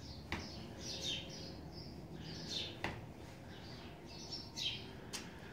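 Small birds chirping repeatedly, with three sharp clicks about two and a half seconds apart.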